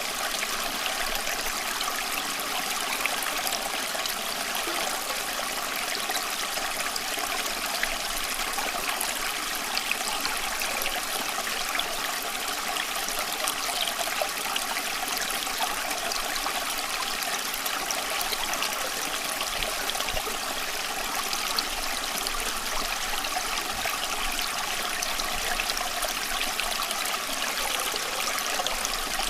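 Running water: a steady, even flow of a stream or trickle.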